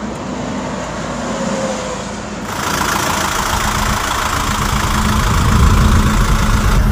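Truck engine running steadily, with a rushing road and wind noise that grows louder about two and a half seconds in.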